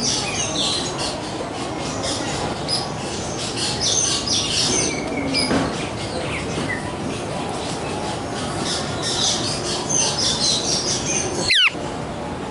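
Aviary birds chirping and squawking in many short, high calls over a steady background noise. A quick downward-sliding whistle comes near the end.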